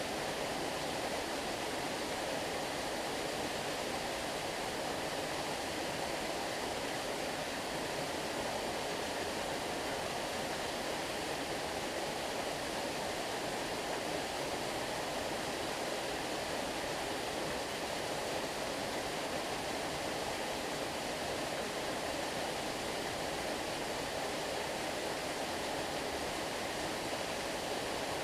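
Stream water running steadily, a constant even rush with no breaks or changes.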